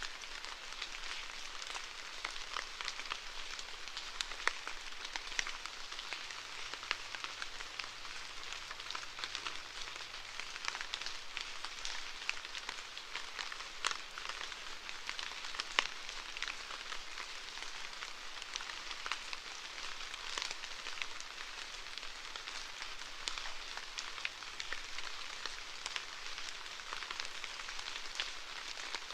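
Steady rain falling, a dense patter of many small drops striking a surface.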